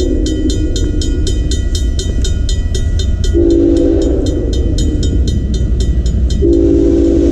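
Freight locomotive horn sounding at a railroad crossing: a short blast about three seconds in, then a long blast starting near the end, the tail of the standard long-long-short-long crossing signal. Under it a crossing-signal bell rings about four times a second and stops as the long blast begins, with the steady rumble of the approaching train throughout.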